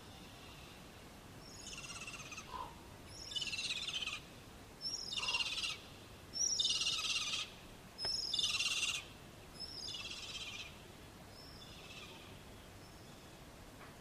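A bird giving a series of about seven harsh, rasping calls, roughly one a second, swelling in loudness through the middle and then fading away.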